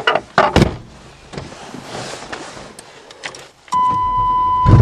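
A few clicks and knocks, then a steady high-pitched warning buzzer comes on. Near the end a fuel-injected car engine cranks and starts at once on a cold start.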